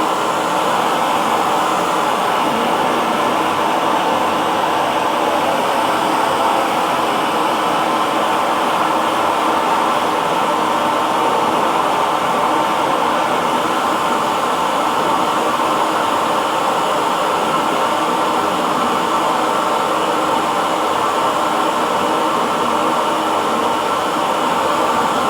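Hair dryer running steadily: an even, unbroken blowing noise with a faint steady hum, strongest in the middle range.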